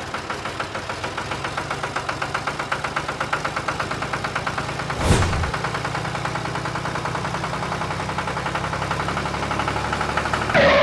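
Tractor-style engine running steadily with a rhythmic chug of several beats a second. A brief whoosh-like sweep about halfway through.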